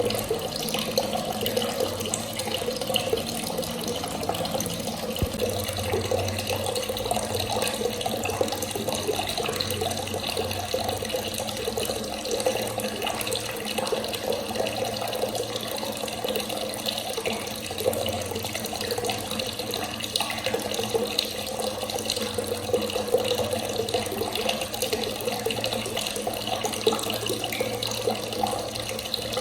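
Water running from a tap in a steady, unbroken stream.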